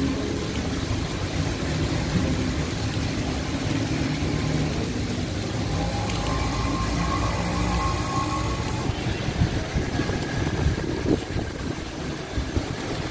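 Steady rain falling on a wet city road, a constant hiss, with motor-vehicle traffic running through it.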